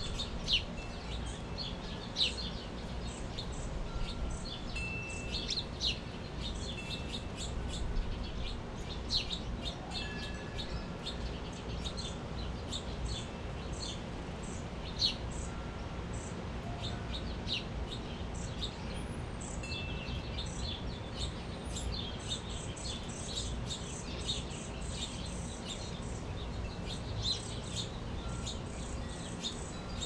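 A flock of small birds chirping and calling over and over, many short high chirps overlapping, with a few clear ringing tones scattered among them.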